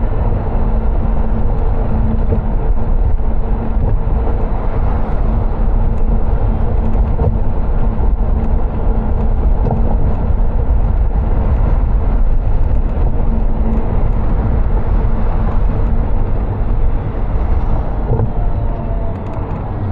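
Car driving along: steady road and tyre noise with a low rumble and a steady hum underneath, easing slightly near the end.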